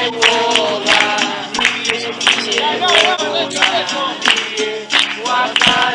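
Music with voices singing, the pitch wavering up and down, over sharp, repeated claps or percussion strikes keeping a rhythm.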